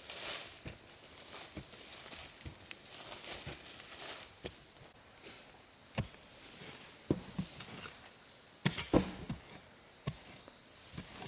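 Scattered light knocks and rustling, as of objects being handled or stepped on. There is a sharper cluster of knocks about nine seconds in.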